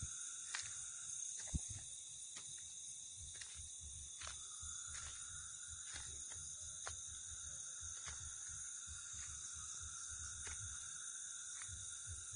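Night insect chorus of crickets: several steady high trills layered together, with scattered short clicks and a low uneven rumble underneath.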